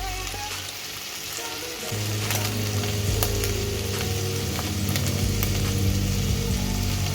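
Beef with onions frying in a pan, sizzling steadily, with a spoon stirring and a few sharp clicks of utensil on pan. Faint background music runs underneath, with a low sustained tone coming in about two seconds in.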